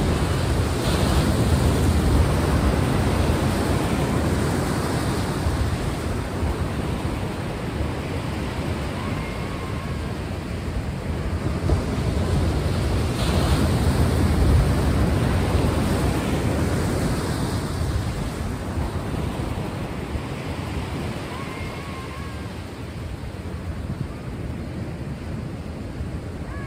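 Ocean waves: a continuous wash of surf that swells to a peak about two seconds in and again about halfway through, then ebbs.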